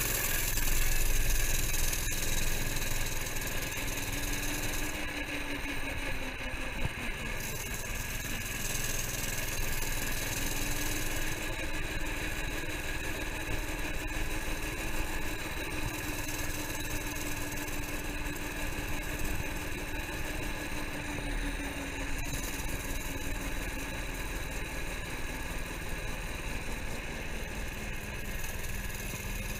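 Minibike's small engine running steadily while riding, its pitch rising and falling gently with the throttle.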